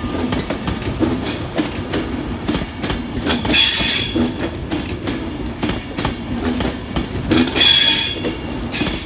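Class 390 Pendolino electric train rolling past, its wheels clacking over the rail joints, with two bursts of high-pitched wheel squeal, about three and a half seconds in and again about seven and a half seconds in.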